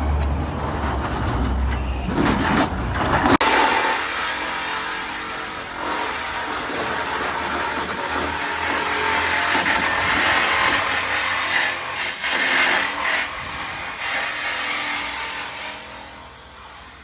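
Engine noise from a vehicle or machine running steadily. The sound changes suddenly about three and a half seconds in, from a low hum to a broader, harsher noise, and fades near the end.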